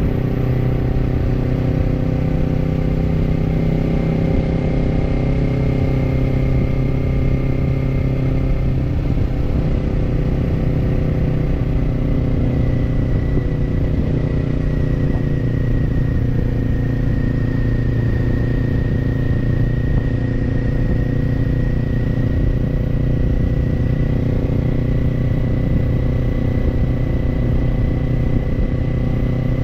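Kawasaki parallel-twin motorcycle engine with an aftermarket slip-on exhaust, running at steady revs while cruising, with steady wind and road noise underneath.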